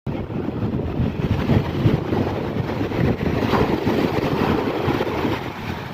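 Sea breeze rumbling across the microphone over the rush of waves on a beach, a steady noise that swells and dips irregularly.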